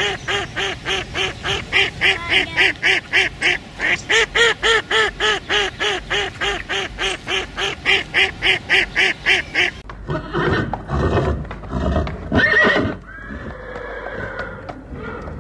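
A long run of rapid, evenly repeated animal calls, about three or four a second, stops abruptly about ten seconds in. It gives way to a horse's rougher sounds, with one loud neigh about two and a half seconds later.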